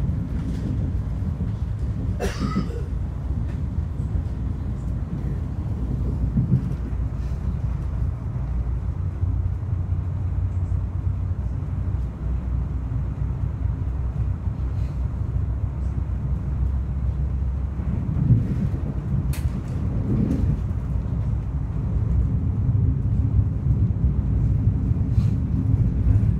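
Steady low rumble of a train in motion, with a short sharp sound about two seconds in and a click near twenty seconds.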